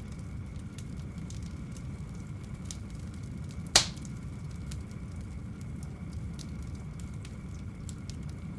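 Wood fire burning in an open brick fireplace: a steady low rumble with scattered small crackles and one loud, sharp crack a little under four seconds in.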